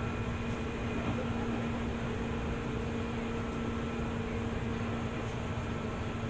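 Steady running sound heard on board a JR 205 series electric train: a low rumble with a steady hum over it.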